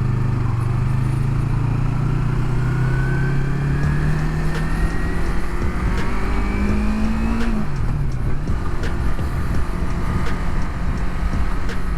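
Yamaha MT-03's parallel-twin engine pulling under steady acceleration, its pitch climbing slowly for about seven seconds and then falling away sharply, over a steady low rush of wind.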